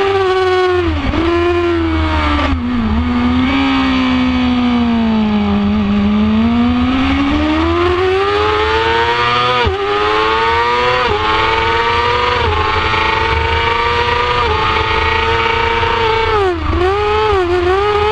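2006 Yamaha YZF-R6's inline-four engine at high revs. The revs drop hard about a second in and stay low for a few seconds. They climb steadily again, with a string of quick upshifts from about ten seconds in, each a short dip in pitch, and drop once more with quick downshift blips near the end.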